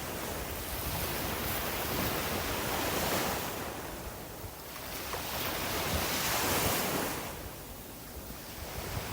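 Sea waves breaking and washing up a beach, the surf swelling and easing twice in a slow rhythm.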